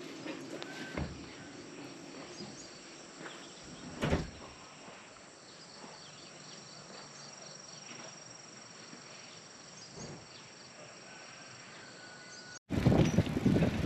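Faint outdoor ambience with insects chirping in thin, steady high tones, and a single knock about four seconds in. Near the end it cuts suddenly to much louder, busier sound.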